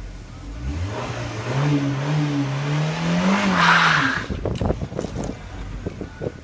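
Volkswagen Golf 1.9-litre engine revving up hard in a wheelspin, its note climbing for about three seconds, with a surge of tyre noise at the peak. The revs drop off about four seconds in, followed by a run of short knocks and thumps.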